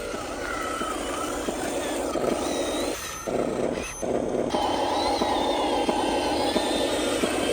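Small electric motors and gearboxes of RC construction models whining as they run, the whine rising and falling in pitch over a gritty grinding noise. The sound cuts out briefly twice about three and four seconds in, then comes back a little louder.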